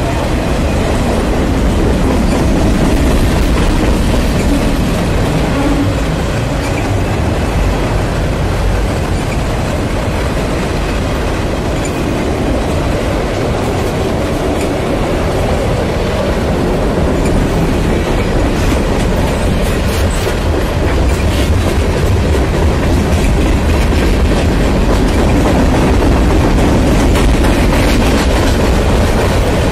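Freight cars of a long Union Pacific train rolling past close by: autoracks and covered hoppers. Their wheels rumble and clatter steadily on the rails.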